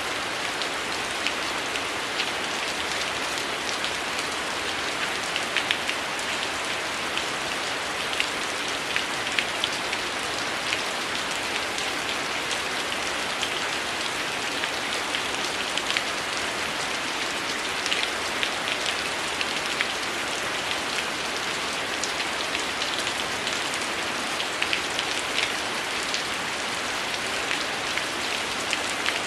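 Heavy rain falling steadily, with scattered sharp crackles from a wood fire over it.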